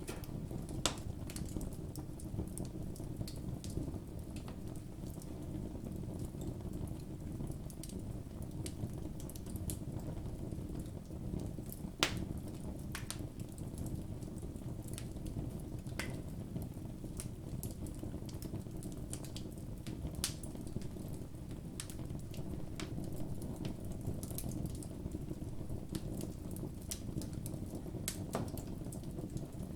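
Campfire burning: a steady low rush of flames with scattered sharp crackles and pops of burning wood, two louder pops about a second in and around the middle.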